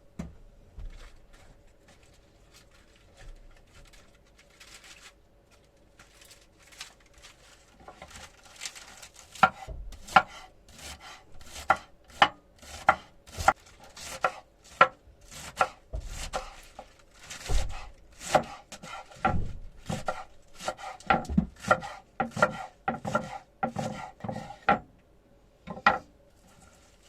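Chopping: a run of sharp knocks, about two or three a second, starting about eight seconds in and stopping near the end.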